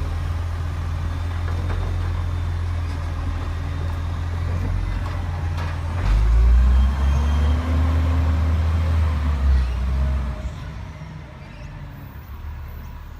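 Garbage truck's diesel engine running with a deep rumble. It gets louder about six seconds in as it works harder, then dies down near the end.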